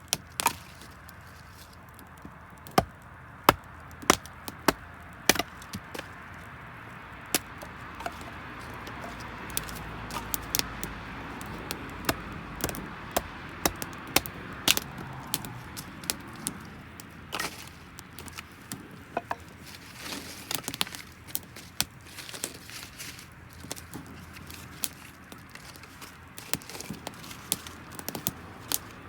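Wood fire crackling and popping as damp firewood burns: many irregular sharp cracks of varied loudness over a low rush of flame that swells about halfway through.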